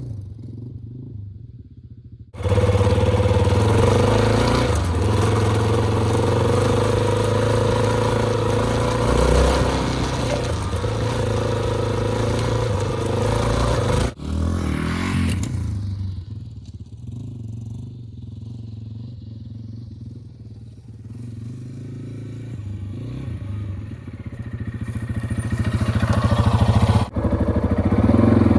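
Single-cylinder engine of a Yamaha XT250 dual-sport motorcycle running while ridden, mostly at a steady pull. The engine sound drops off for a stretch past the middle, builds again as the throttle opens, and changes abruptly about two seconds in, around halfway and near the end.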